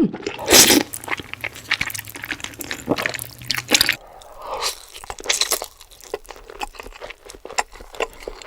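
Close-miked eating: a person chewing and biting into food, with many short crunches and clicks and a louder noisy burst about half a second in.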